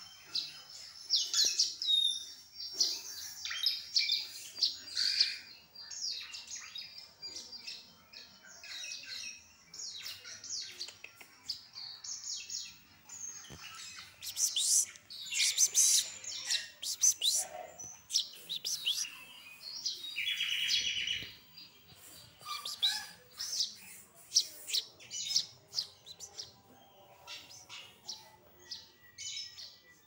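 Small birds chirping: a busy series of short, high chirps, with a harsher buzzy call about twenty seconds in.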